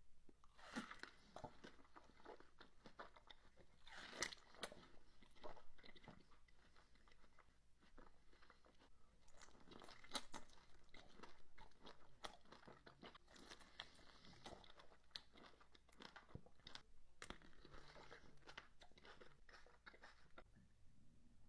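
Someone biting and chewing fresh fruit: a continuous run of small crisp crunches and clicks, faint overall.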